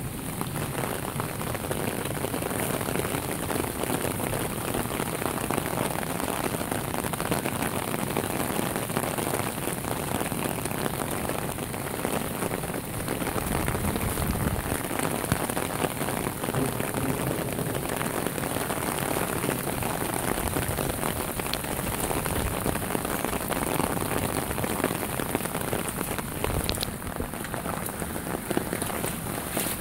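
Heavy rain falling steadily onto standing water and soaked grass.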